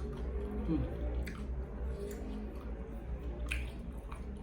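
A person chewing a mouthful of food close to the microphone, with wet mouth sounds and small clicks.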